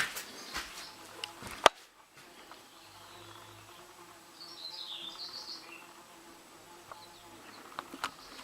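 A few sharp hammer knocks on ceiling plaster, the loudest about a second and a half in and a cluster near the end, with a bird chirping briefly in the middle.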